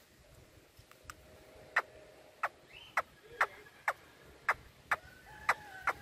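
Birds making sharp, short clicking calls, repeated about twice a second, over faint thin whistles that are held steady.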